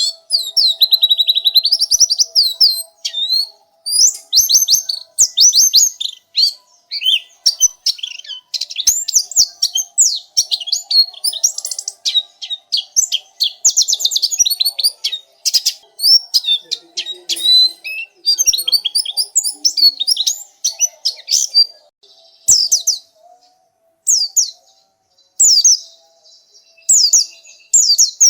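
Pleci (white-eye, Zosterops) singing a long, fast, twittering song of high chirps and trills used as a tutor song. The song runs almost without a break at first, then comes in shorter phrases with pauses in the last third.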